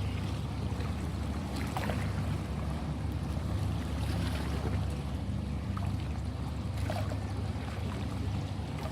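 Ocean waves breaking and washing, a steady low rumble of surf with a hiss of water above it and a few faint brief splashes.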